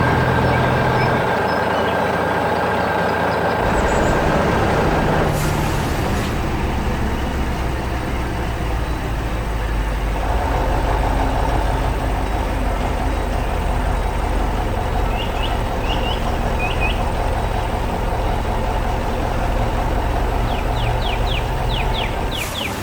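Heavy construction machine with its engine running steadily, a low hum under a whining tone that changes about 5 seconds in and again about 10 seconds in. A few short high chirps come near the middle and again near the end.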